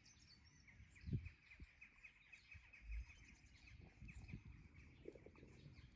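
Faint birdsong: a high, fast run of chirps with a couple of soft low bumps about a second and three seconds in.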